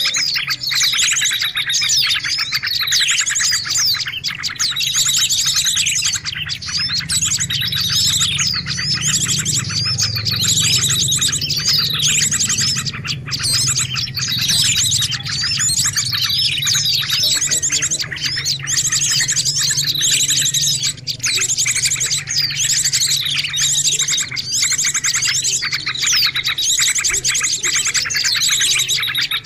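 Bird-lure recording of many small songbirds chirping and twittering at once: a dense, unbroken stream of short, high, falling chirps.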